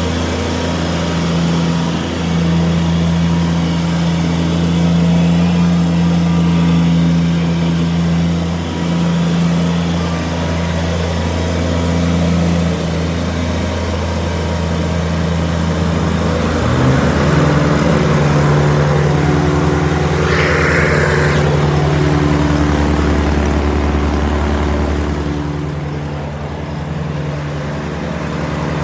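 Kubota G23-II ride-on lawnmower's diesel engine running steadily, then revving up to a higher speed a little past halfway and holding there. A brief higher-pitched hiss comes about two-thirds through.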